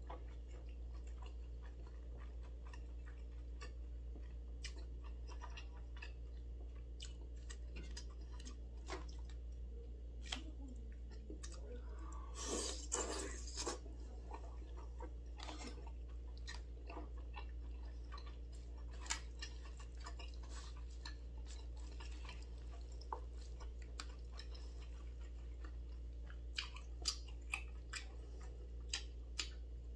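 A person chewing and eating chewy spicy noodles (jjolmyeon) and rice cakes (tteokbokki), with many small wet mouth clicks. A louder, denser stretch of eating noise comes about twelve to thirteen seconds in, all over a steady low hum.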